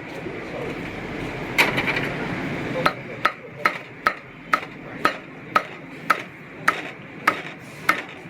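Cleaver chopping roast meat on a wooden block: sharp strikes, a few scattered at first, then steady at about two a second from about three seconds in.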